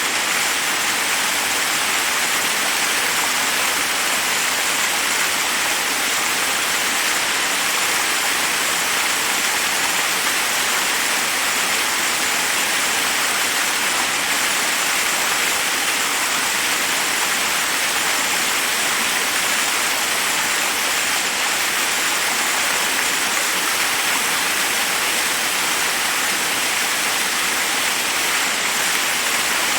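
Steady rush of a forest waterfall, water pouring over rocks in an even hiss that stays the same throughout.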